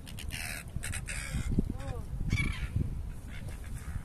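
A few short honking bird calls near the middle, over steady wind rumble on the microphone, with bursts of hiss in the first second or so.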